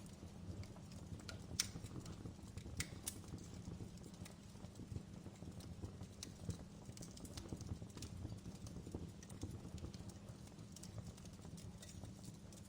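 Wood fire in a fireplace crackling: scattered sharp pops and snaps over a steady low rumble of the flames, with a few louder pops in the first three seconds.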